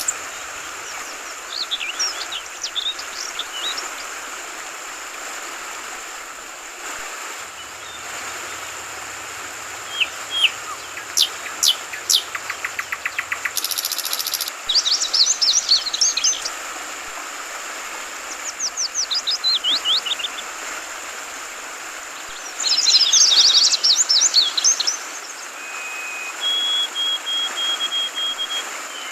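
Yellow-vented bulbul (trucukan) calling in clusters of quick, sweeping chirps, repeated every few seconds, over a steady hiss of flowing water. A few steady whistled notes sound near the end.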